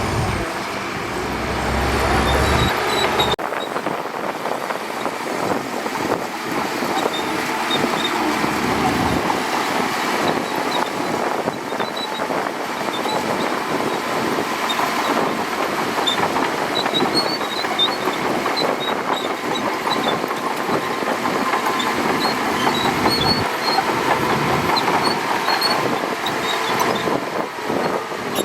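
Shantui DH17C2 crawler bulldozer working: a diesel engine running under a dense clatter of steel tracks, with scattered short high squeaks. A low rumble underneath cuts off abruptly about three seconds in.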